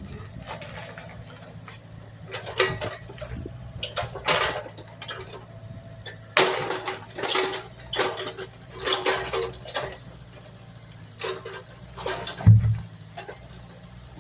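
An engine idling steadily, with irregular rustling and scraping noises over it and one heavy thump about twelve and a half seconds in.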